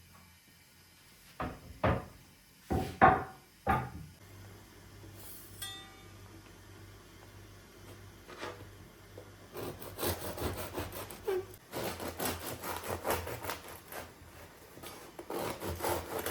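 A few separate knocks in the first four seconds, like objects set down or handled on a hard surface. From about ten seconds in come rapid repeated rubbing or scraping strokes on wood, over a steady low hum.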